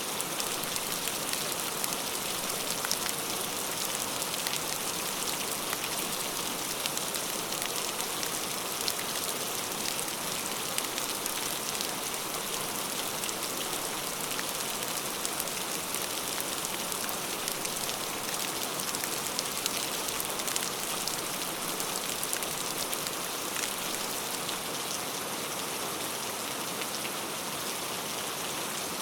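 Heavy rain falling steadily: an even hiss, strongest in the upper range, made up of countless small drop impacts.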